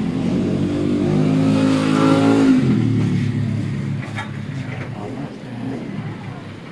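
A motorcycle engine climbing in pitch and loudness for about two and a half seconds, then easing off and fading away.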